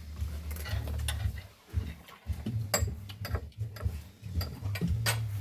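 Cutlery and dishes clinking and knocking a few times, over a low, uneven rumble.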